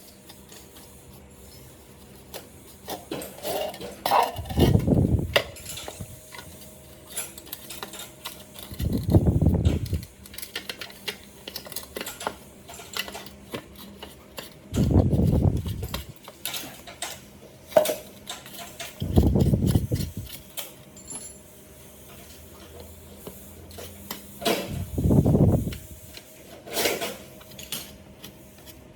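Small metal parts and tools clinking and rattling while a blender is worked on. Five short low bursts, each about a second long, are the loudest sounds.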